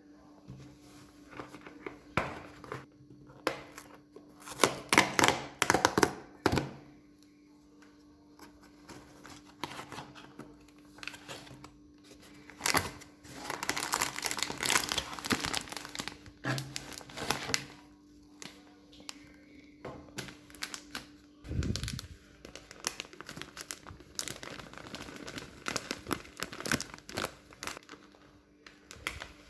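Crinkling and rustling handling sounds in repeated clusters, with scattered sharp knocks, over a faint steady hum.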